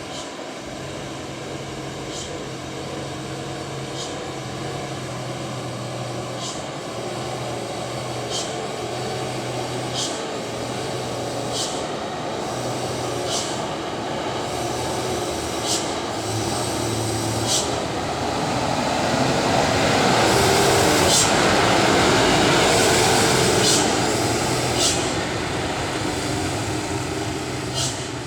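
Heavy dump truck's diesel engine running steadily under load, swelling to its loudest about two-thirds of the way through as it comes close, then easing off. Short sharp high ticks repeat about every two seconds.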